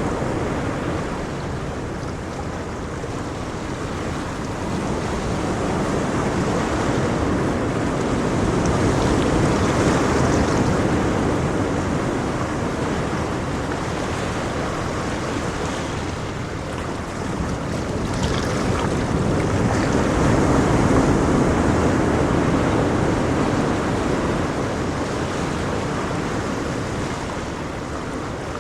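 Ocean waves breaking and washing on a shore, rising and falling in slow swells that peak about a third of the way in and again past two-thirds.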